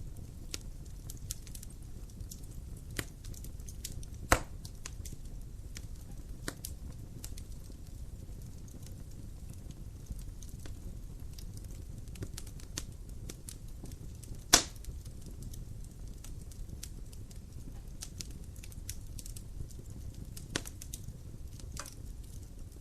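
Wood fire burning in a fireplace: a steady low rumble of flames with frequent small crackles and two loud sharp pops, about four seconds in and again about fifteen seconds in.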